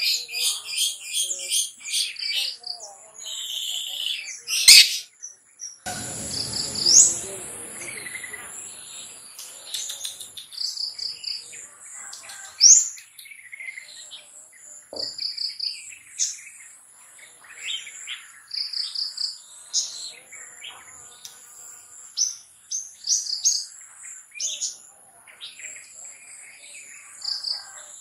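Long-tailed shrike (cendet) singing a rapid, varied song of short chirps, trills and sharp rising whistles over a steady high insect drone. A sharp click comes about five seconds in, followed by a couple of seconds of rushing noise.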